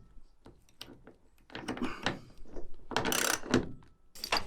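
Socket ratchet fitted with a 17 mm socket, clicking in quick runs as a seatbelt anchor bolt is turned, loudest about three seconds in.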